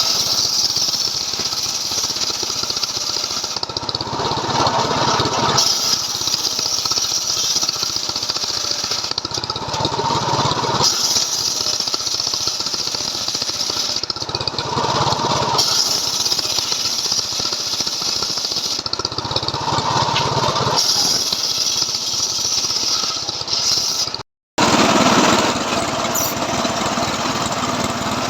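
Stihl MS 381 two-stroke chainsaw running under load while ripping a log, its tone swelling and easing about every five seconds. The sound drops out completely for a moment near the end.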